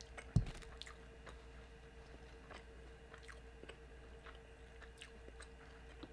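A person chewing food close to the microphone, with faint wet mouth clicks and crackles. There is one soft low thump about half a second in.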